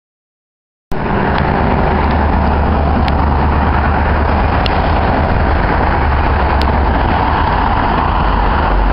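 Steady road and engine rumble of a moving car, heard from inside, cutting in abruptly about a second in, with a few faint clicks.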